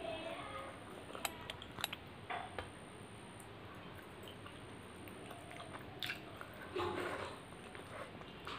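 Close-miked eating sounds: a mouthful of fried rice and mutton curry being chewed, with wet smacking clicks a few times, and fingers squishing rice into curry gravy.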